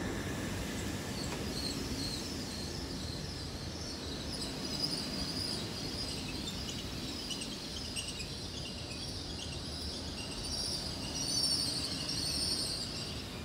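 Hitachi IET electric train rolling slowly past along a station platform with a steady low rumble, overlaid by many short, high chirping squeaks that grow louder in the second half.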